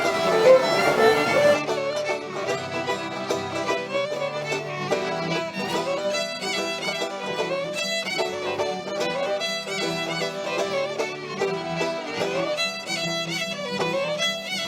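Instrumental fiddle tune in a bluegrass-folk style, with a steady rhythm of quick notes.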